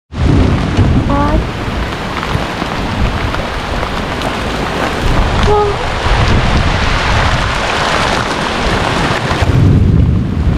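Heavy rain falling steadily, with a low rumble that swells up several times.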